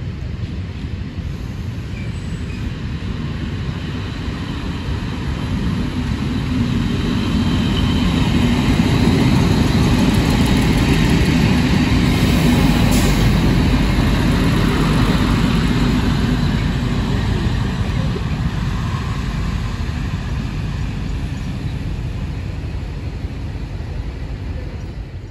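Trenitalia diesel railcar passing close by: its engine rumble and wheel noise build up a few seconds in, are loudest in the middle as it goes past, then fade as it moves away.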